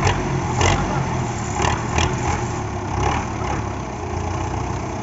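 Diesel tractor engine running steadily, with a few short sharp knocks in the first two seconds.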